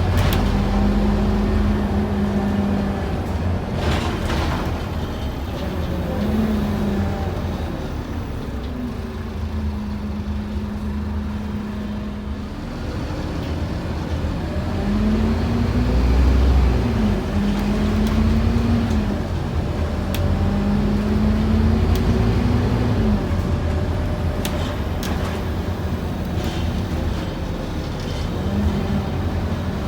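Scania N230UD OmniCity double-decker bus heard from on board: the diesel engine pulls hard, its pitch climbing and then dropping back several times as the automatic gearbox changes up, with a quieter, lower stretch about ten seconds in.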